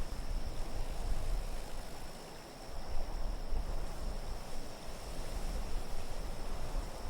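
Designed winter-storm ambience: wind gusting with a pulsing low rumble, and a thin, steady high whistle held above it.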